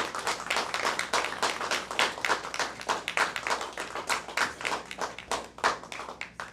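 An audience applauding: many hands clapping irregularly, stopping abruptly near the end.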